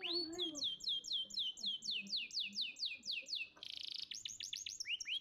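Domestic canary singing: a fast trill of high notes that each sweep downward, about six a second, broken a little past halfway by a short harsh buzzy note, then more rapid sweeping notes.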